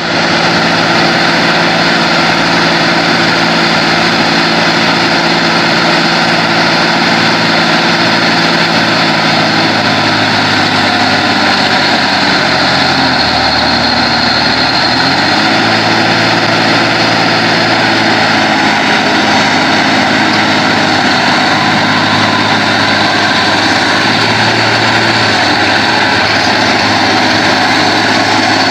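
Heavy diesel engine of a logging truck running under load, with a steady mechanical din. About halfway through, the engine note drops low for a couple of seconds, then climbs back up.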